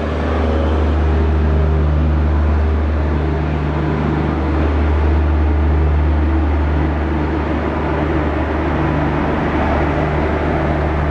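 Steady low hum and rumble of a passenger train running, heard from an open coach doorway, with a slightly higher tone that fades in and out several times.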